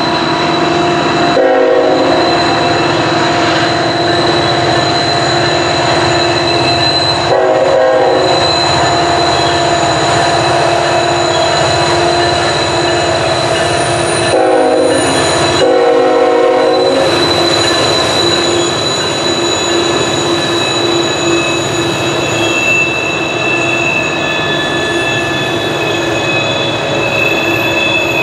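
Norfolk Southern coal train passing on a curve behind a GE ET44AC diesel-electric locomotive, with a steady rumble of engines and wheels. The steel wheel flanges squeal against the rails on the curve in steady high-pitched tones throughout. The horn sounds in short blasts four times: near the beginning, a quarter of the way in, and twice around the middle as the locomotives pass.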